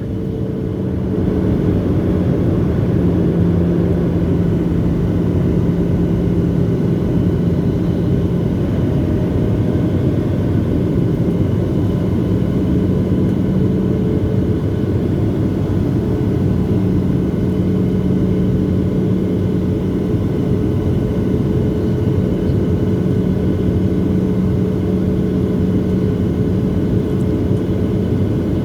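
Steady airliner noise of a Boeing 737-700 with its CFM56-7B turbofans: a dense rumble of engine and airflow with a steady low hum and a higher steady tone over it. The level dips briefly right at the start, then holds even.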